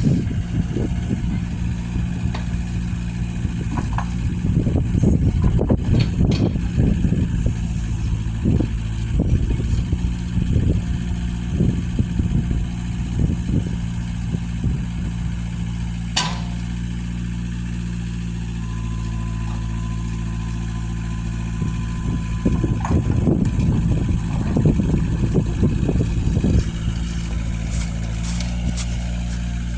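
Engine idling steadily, with irregular low rumbles over it and one sharp click about sixteen seconds in.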